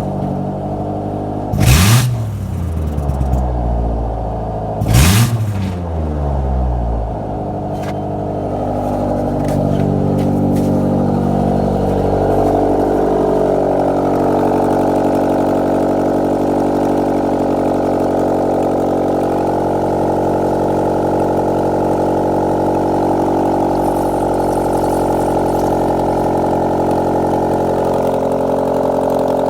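Mitsubishi 4G18 1.6-litre four-cylinder petrol engine running just after start-up, revved briefly twice, each rise in revs falling straight back. It then settles into a steady idle.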